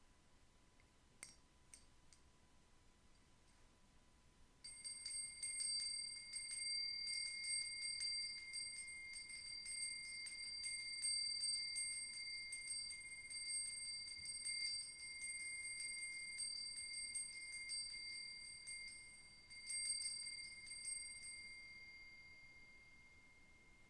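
A high-pitched metal bell rings with a long sustained tone from about five seconds in, with faint fine clicking over it. It is set ringing again near the end and fades away.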